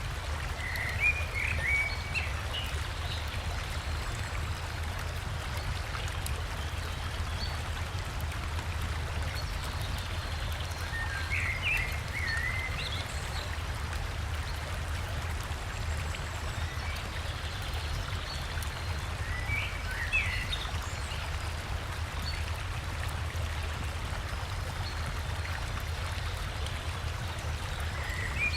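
Steady rush of flowing river water, with a short bird song phrase breaking in roughly every eight to nine seconds, four times in all.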